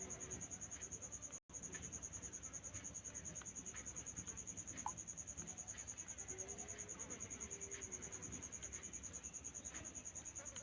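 Cricket chirping continuously in fast, even pulses, with a few faint clicks scattered underneath.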